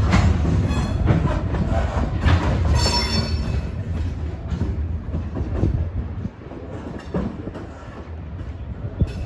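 Freight train rolling past: a heavy rumble with wheels clicking over the rail joints, and a brief high wheel squeal about three seconds in. The rumble drops off about six seconds in.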